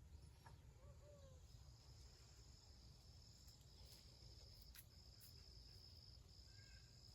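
Faint garden ambience: a steady, high-pitched insect trill, cricket-like, starts about a second and a half in and runs on with a few short breaks over a low outdoor rumble.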